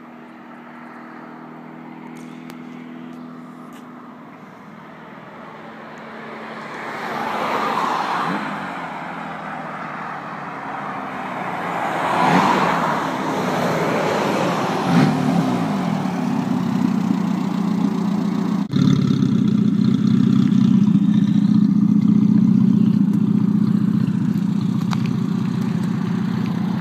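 Classic Mini MPi's 1275 cc A-series four-cylinder engine running with no exhaust system fitted, giving a raw, unsilenced note. It grows louder as the car approaches, swells twice and drops in pitch about halfway through, then runs steadily at low revs close by.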